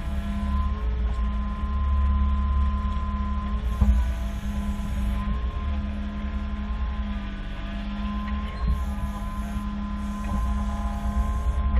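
A vehicle engine running steadily with a low drone, and a single knock about four seconds in.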